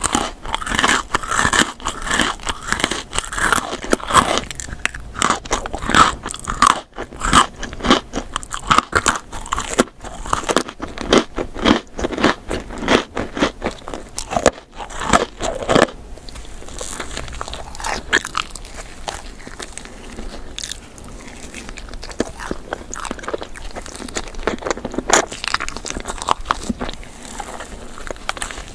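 Close-miked eating of a dessert: crunchy bites and chewing, dense and crackly for the first half, then quieter, softer chewing with only the odd crunch.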